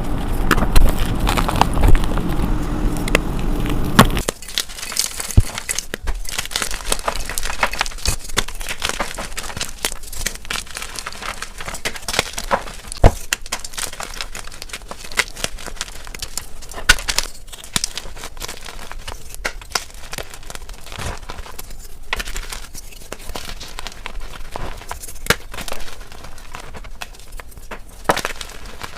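Gym chalk (magnesium carbonate blocks) being crushed and crumbled close to the microphone. It is louder and fuller for the first four seconds, then turns to a dry crackling crunch with scattered sharp snaps.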